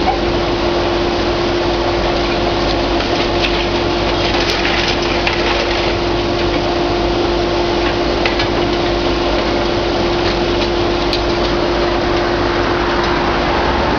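Large hydraulic excavator running steadily on demolition work, its engine drone carrying a constant hum. A few short knocks and crunches come about four seconds in and again near eight seconds.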